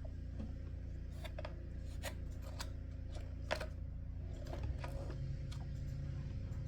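Irregular light clicks and handling noise from the plastic cupholder door mechanism of a Lexus RX330 center console being worked by hand, over a steady low hum.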